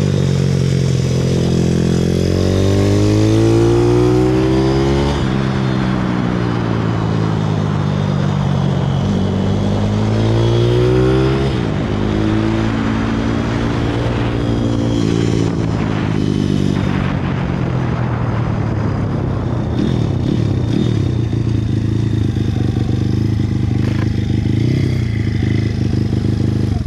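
160cc pit bike's single-cylinder four-stroke engine revving up and down around the track. The pitch climbs for several seconds, drops sharply about five seconds in and again about twelve seconds in, then holds higher with small rises and falls. The sound cuts off suddenly at the end.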